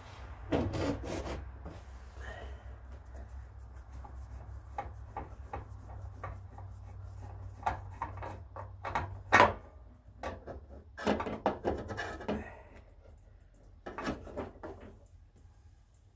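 Scattered clicks, knocks and scraping of tools and parts being handled during hands-on work on a small engine, with the loudest knock about nine seconds in, over a low steady rumble that fades out about ten seconds in.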